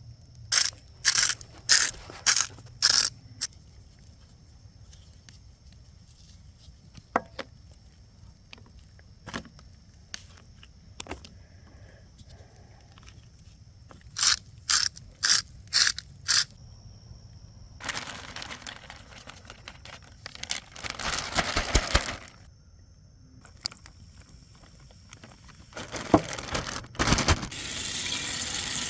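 Cooking preparation at a camp: two runs of about five sharp scraping strokes, each run lasting a few seconds, then stretches of rustling. Near the end a steady sizzle sets in as the battered bass starts frying in hot oil.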